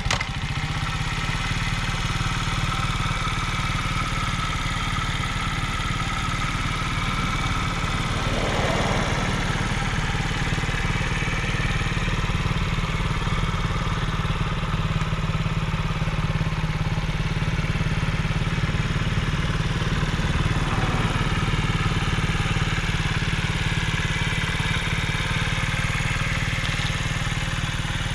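1999 Honda Z50R's small single-cylinder four-stroke engine idling steadily, having just caught on a cold start.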